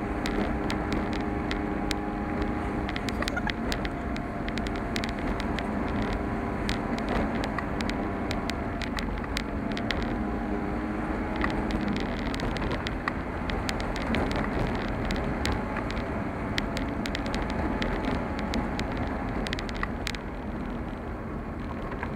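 A car driving along, its engine running steadily under constant road noise, with frequent sharp clicks and rattles throughout.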